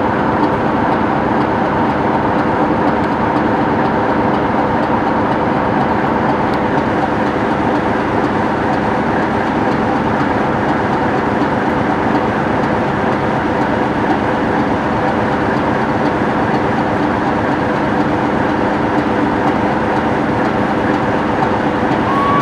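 Class 37 diesel locomotive's English Electric V12 engine running at idle, a steady drone with several held tones and no beat. A short whistle sounds near the end.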